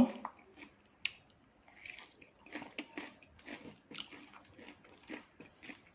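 A person chewing a mouthful of raw vegetable salad close to the microphone: soft, irregular crunching of the leafy greens.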